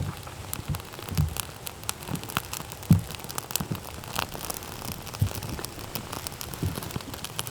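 Wood campfire crackling: irregular sharp pops and snaps, with soft low thuds now and then.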